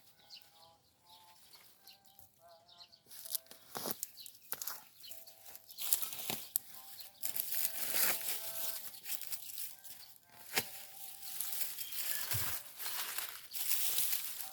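Dry leaves and stalks rustling and crackling as they are handled, with short bird chirps repeating in the background.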